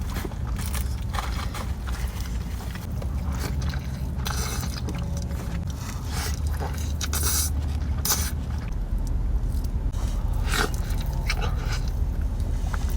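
A person eating close to the microphone: scattered bites, crunches and chewing, over a steady low hum.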